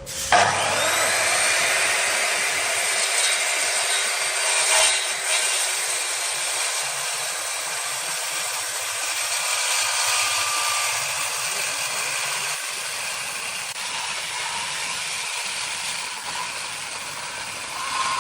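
A power tool working wood, starting abruptly just after the start and then running steadily with a high, hissing whine.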